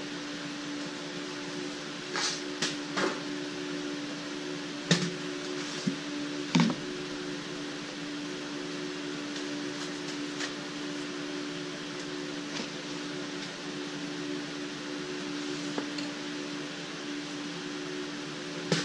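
AC TIG welding arc buzzing steadily while a bead is laid with filler rod, the machine's AC frequency turned down. A few sharp clicks and ticks come through in the first seven seconds and again near the end.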